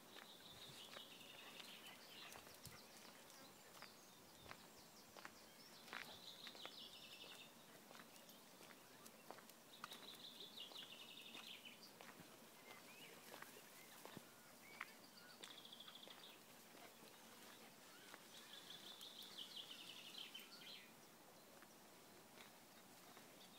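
A small songbird singing, faint: a short trilled phrase of rapid notes that falls slightly at the end, repeated five times, every four or five seconds. Light scattered clicks, like footsteps on a dirt path, come in between.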